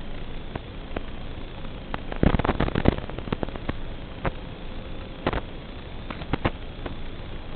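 Strong wind rushing and buffeting the microphone, with crackling pops and knocks clustered about two seconds in and again around five seconds, over a faint steady tone.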